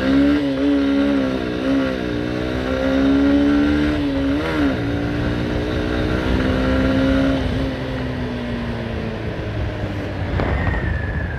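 Honda Hornet 160R's single-cylinder engine accelerating, its pitch dipping and recovering twice at upshifts, then falling away as the throttle eases off. A high tone sliding downward begins near the end.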